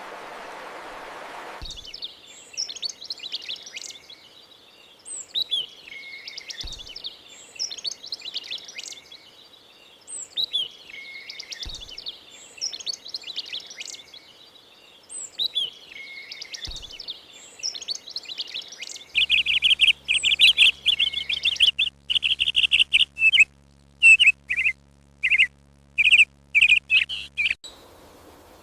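Songbirds singing: a bird repeats a short, high chirping phrase every couple of seconds, then from about 19 s in a louder, rapid series of chirps takes over. A soft rushing noise plays for the first second and a half and cuts off abruptly.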